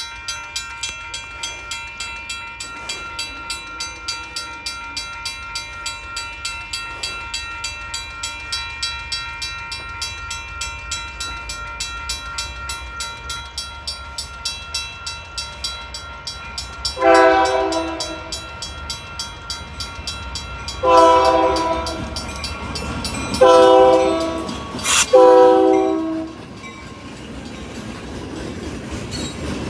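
A bell rings steadily, about two to three strokes a second. Then a Union Pacific diesel locomotive's air horn sounds four blasts, the long-long-short-long pattern used at a grade crossing, as the train rumbles closer near the end.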